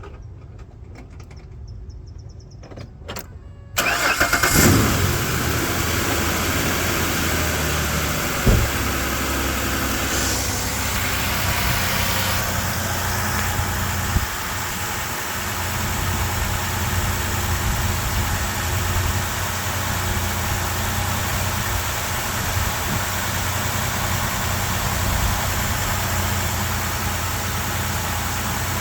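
A few clicks and a short high chime, then the 2011 Ford Ranger's 4.0-litre V6 starts from cold about four seconds in, flares briefly and settles into a steady idle. A single thump comes a few seconds after the start.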